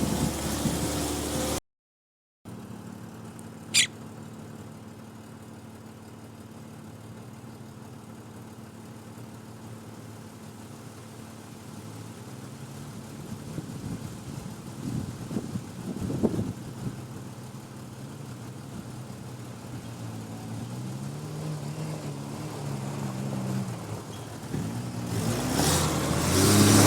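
Jeep engine running at low revs as it crawls over an off-road trail, its pitch rising and falling with the throttle and getting louder near the end as it climbs. A brief high squeak comes about 4 seconds in.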